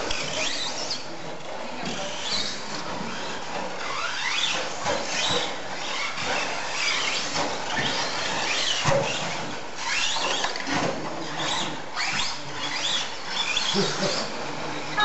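Several radio-controlled stadium trucks racing on a dirt track, their motors whining in overlapping pitches that rise and fall as they speed up and slow down.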